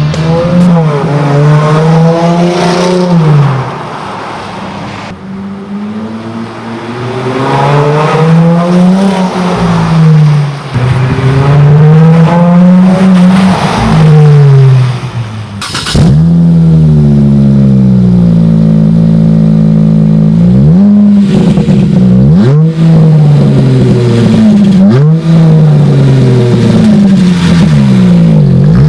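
V6 Dodge Charger/Magnum engine breathing through a Solo Performance Mach-SXT stainless dual exhaust, its revs climbing and falling again and again. Near the end the revs rise in several quick climbs one after another.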